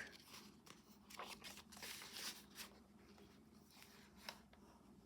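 Faint rustling of the journal's paper pages being handled and turned: a cluster of soft rustles in the first half, then a single small click near the end.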